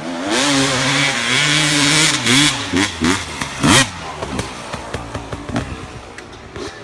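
Dirt bike engine running hard at high revs for about two seconds, then a series of quick throttle blips and one sharp rising rev just under four seconds in, after which it fades.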